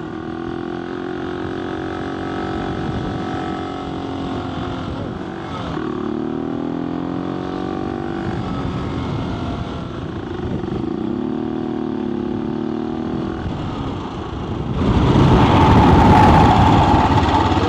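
AJP PR7's single-cylinder engine running on the move, its pitch falling and rising several times as the throttle and gears change. About three-quarters of the way through a louder rushing noise swells over the engine.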